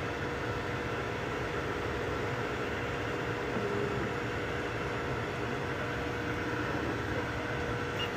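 3D printers running mid-print: a steady whir of fans with a constant hum, and short stepper-motor tones that change pitch as the print heads move, a few of them near the middle.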